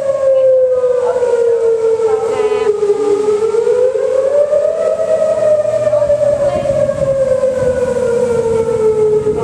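Outdoor tornado warning siren wailing, its pitch slowly falling, rising again about halfway through, then falling once more: the alarm for a tornado warning.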